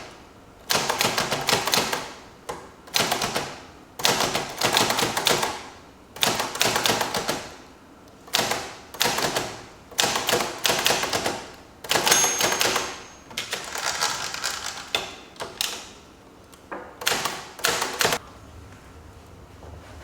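Typing on a typewriter: quick runs of key strikes in bursts of a second or two, with short pauses between them. The typing stops near the end, leaving a low hum.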